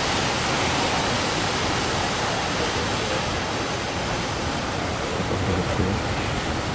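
Steady rushing noise of heavy surf breaking, an even roar with no distinct events.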